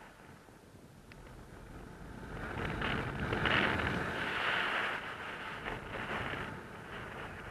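Wind rushing over the microphone, swelling for a couple of seconds in the middle and then easing.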